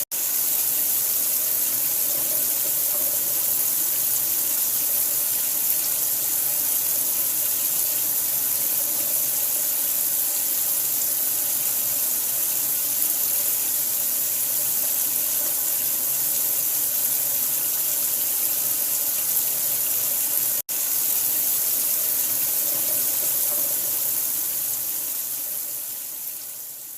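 Steady rushing water with a bright hiss, breaking off for an instant about two-thirds of the way through and fading out near the end.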